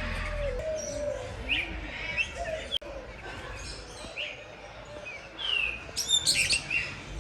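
Many birds chirping and calling over one another, with a burst of louder, sharper calls about six seconds in.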